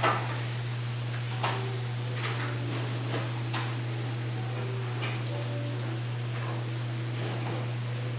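Steady rain falling on a porch roof, an even hiss, with scattered sharp taps and clicks every second or so, the loudest right at the start, over a low steady hum.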